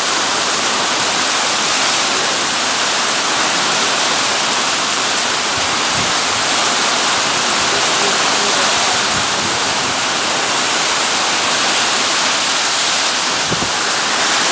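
Heavy rain pouring down in a storm, a dense, steady hiss. There are a few brief low thumps.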